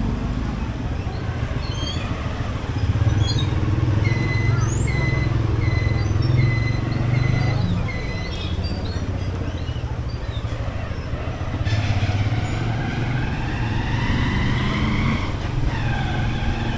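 Motorcycle engine running steadily while riding on a road. A run of short, evenly spaced high beeps sounds in the middle, and a rising tone comes near the end.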